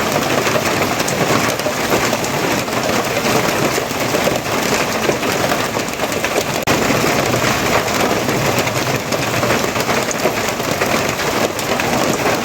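Steady rain: a dense, even hiss of falling water peppered with many small drop ticks.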